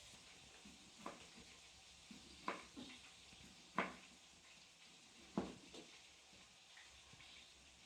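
Food frying in a pan, a faint steady sizzle, with four sharp knocks or clinks of a utensil spread through it.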